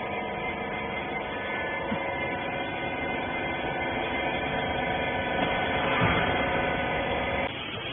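Horizontal bagging baler's hydraulic pump motor running with a steady hum, swelling slightly about six seconds in and cutting off abruptly near the end.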